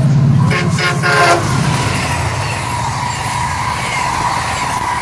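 MARC commuter train passing: the locomotive's horn sounds over a low engine drone and cuts off about a second and a half in, followed by the steady rush of the passenger cars' wheels on the rails with a thin steady whine.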